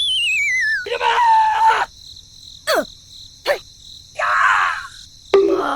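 Cartoon-style sound effects: a wavering whistle sliding down in pitch, like a falling effect, then short voice-like cries and two quick downward zips.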